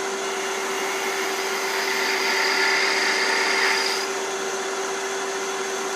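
Wood lathe running with a steady motor whine. From about two to four seconds in, a 1/2 inch bowl gouge cuts into the spinning wood and adds a louder hiss over the motor.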